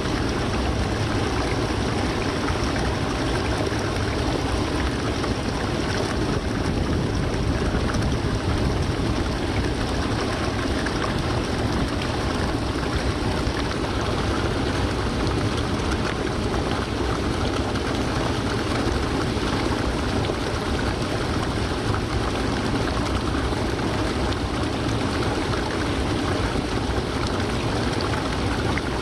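Haruru Falls waterfall pouring, a steady unbroken rush of falling water.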